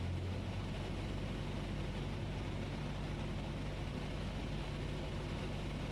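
Cessna 172S's four-cylinder Lycoming engine and propeller giving a steady drone in flight, with power eased back to slow the plane in the landing pattern; the engine note shifts slightly just under a second in.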